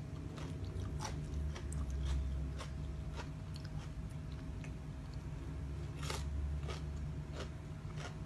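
A person chewing and biting food close to the microphone, with irregular crisp crunches, over a steady low hum.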